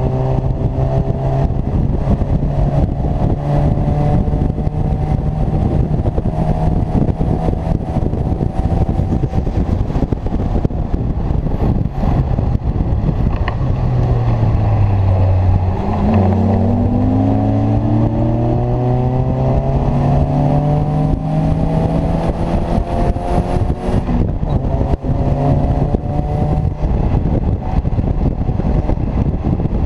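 Engine of an open Seven-style sports car under hard acceleration, heard from the open cockpit on track. Its pitch climbs and steps down at gear changes, drops low about halfway through, then rises steadily again.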